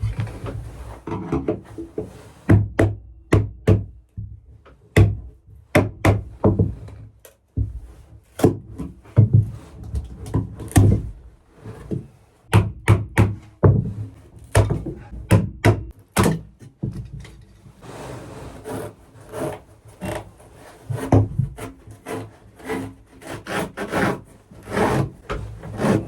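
Hand demolition of a plywood berth: irregular knocks and thuds on 3/4-inch plywood, with stretches of scraping and tearing as glued-on carpet is pried and pulled off it.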